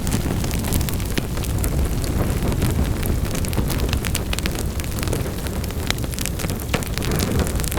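Wood fire in a fireplace crackling: frequent sharp snaps and pops scattered irregularly over a steady low sound of the burning fire.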